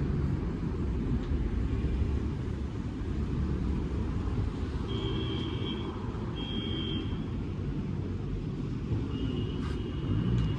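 Honda CB300R single-cylinder motorcycle on the move: a steady low rumble of engine and wind. Two short high tones sound about halfway through, and another near the end.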